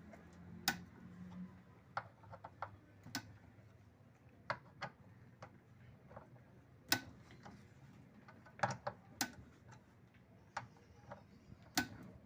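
Scattered sharp metallic clicks and taps of a 10 mm socket wrench working the bolts that hold the stator of an LG Inverter direct-drive washing machine, unevenly spaced, some in quick pairs.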